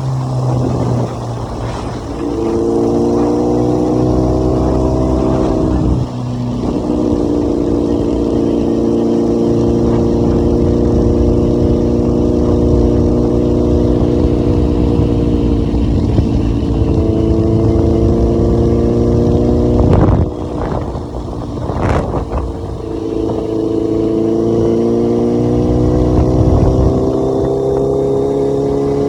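Racing motorcycle engine pulling hard under throttle, its pitch climbing slowly and dropping back at gear changes about six seconds in and again past halfway, with a couple of sharp blips near the end.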